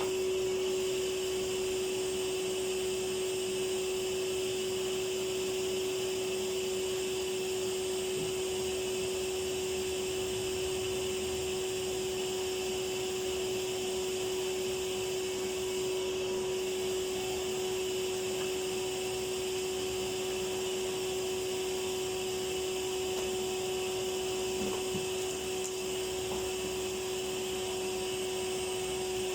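Vacuum cleaner running steadily with a constant hum, its pipe blocked by something stuck inside.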